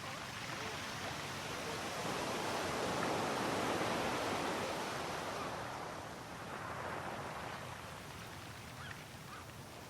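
Sea waves breaking and washing onto the shore: the surf swells to a peak about three to four seconds in, with a smaller wave about seven seconds in. Faint bird calls near the end.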